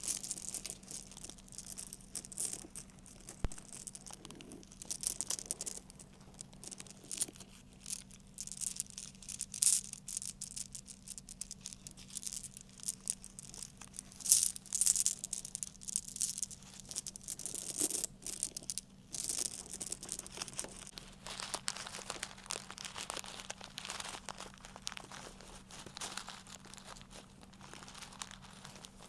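Close-up ASMR handling sounds: quick, irregular rattling clicks of small hard objects, giving way in the second half to a denser crinkling rustle, over a faint steady electrical hum.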